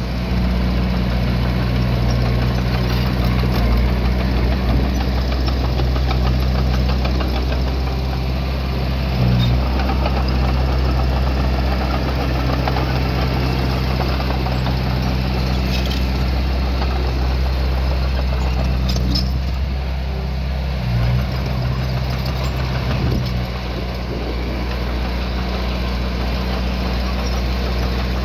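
Diesel engine of earthmoving equipment running steadily, with a deep low rumble and brief surges about nine seconds in and again near twenty-one seconds.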